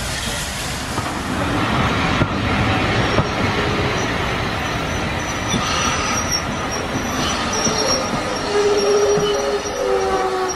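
Train running on the rails with a steady rumble, and high metallic wheel squeal that comes in about halfway through.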